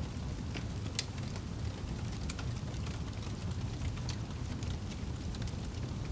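Wood fire burning in a fireplace: a steady low rumble of the flames with irregular sharp crackles and pops from the wood, one of the louder pops about a second in.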